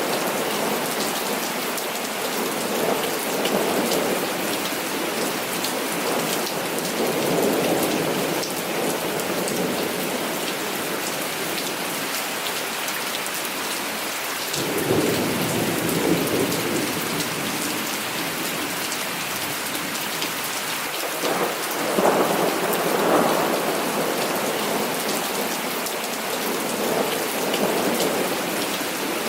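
Heavy rain falling steadily on surfaces, with thunder rumbling several times, the biggest roll starting about halfway through.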